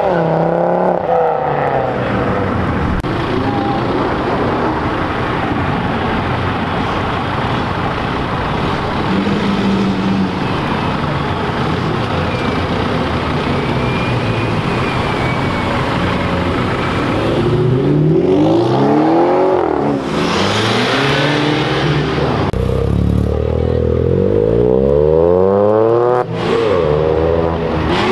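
Several modified cars' engines revving and accelerating away one after another, each pitch climbing and falling as it pulls off. The revving is loudest and most frequent in the last ten seconds.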